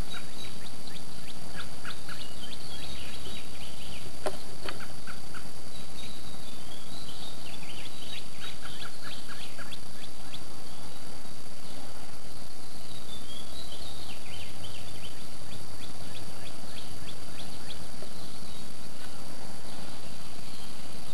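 Songbirds giving short, sharp chirps, scattered through and now and then in quick runs of a few evenly spaced notes, over a steady background hiss with a thin high tone.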